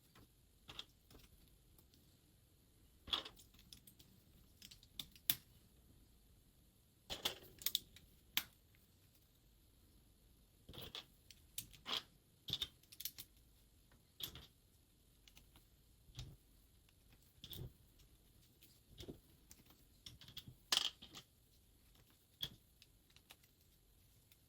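LEGO bricks being handled and pressed together: scattered sharp plastic clicks and taps at irregular intervals.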